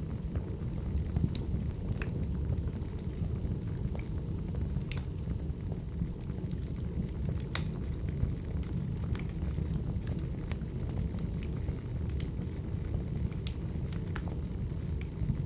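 Wood fire burning with a steady low rumble and scattered sharp crackles and pops from the burning logs.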